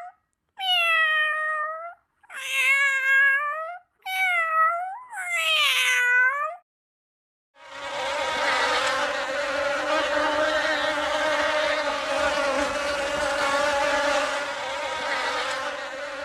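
Three high, wavering animal calls, each one to two seconds long, then a continuous insect buzz that starts about seven and a half seconds in.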